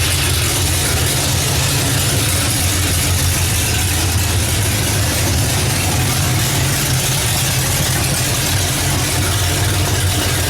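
Oldsmobile 455 V8 engine idling steadily.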